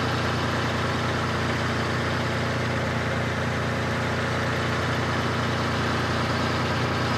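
Truck driving along a road at a steady pace: an even engine drone with tyre and road noise over it.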